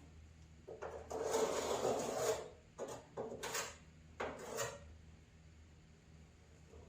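Rubbing, scraping handling sounds: one longer stroke about a second in, then three short ones.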